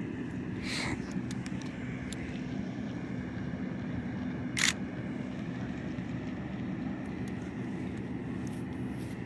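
Steady low engine drone with a constant hum, broken by a few faint clicks and one short, sharp noise about halfway through.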